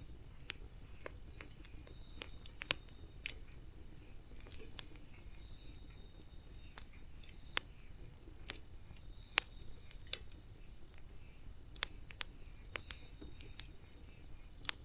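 Campfire burning: irregular sharp snaps and pops of the wood over a faint low rumble.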